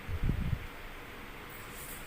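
A brief cluster of low thuds in the first half-second, then a steady background hiss.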